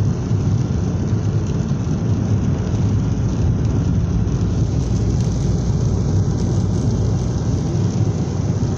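Heavy rain pouring down steadily during a thunderstorm, a constant deep rushing noise.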